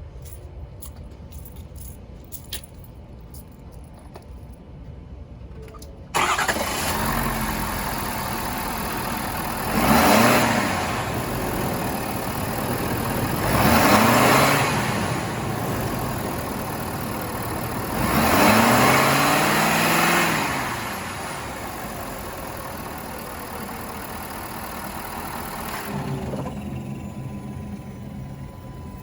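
2022 Ford F350 pickup engine starting suddenly about six seconds in and idling. It is revved three times, the last rev held longer, with the pitch rising and falling each time, then it settles back to idle. The engine sound drops sharply near the end.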